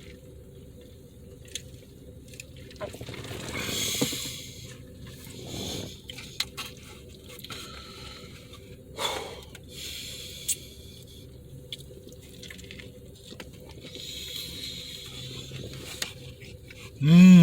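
A person chewing a burger with wet mouth sounds and small clicks, with a few soft swells of rustling or slurping noise. Near the end comes a short voiced 'mm' that falls in pitch.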